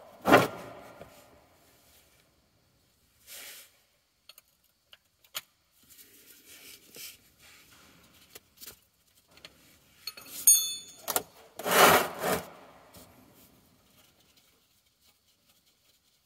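Scattered knocks, clicks and scraping of hand tools on metal as the oil sump plug is worked loose. About eleven seconds in there is a louder metallic clatter with a brief ringing.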